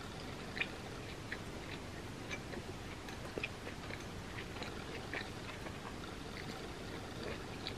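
A person chewing a mouthful of grilled cheese sandwich close to the microphone: faint, scattered small clicks and smacks of the mouth over a steady low hiss.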